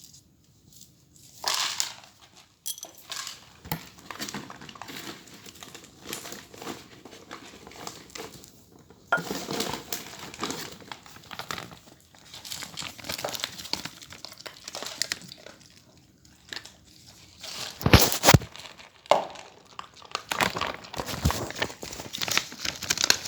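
Crinkling and crunching in irregular bursts as a dog is fed, with a couple of sharp knocks about eighteen seconds in.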